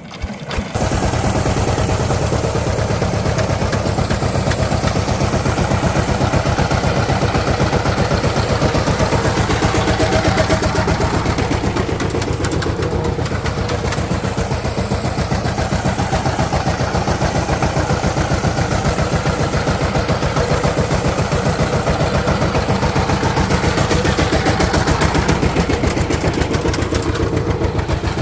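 Diesel engine of a village machine starting abruptly about half a second in, then running steadily at idle with an even, rapid firing beat.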